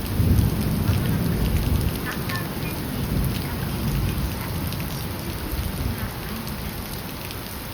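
Heavy rain falling steadily, with a low rolling rumble of thunder that is loudest in the first couple of seconds, swells again a little later, then fades.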